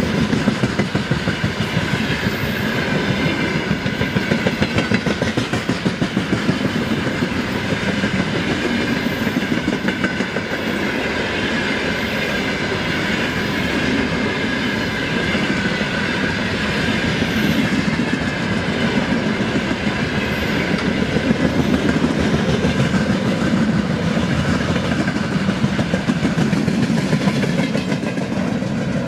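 Freight train hauled by a VL11.8 electric locomotive rolling past, its wagon wheels clattering steadily over the rails.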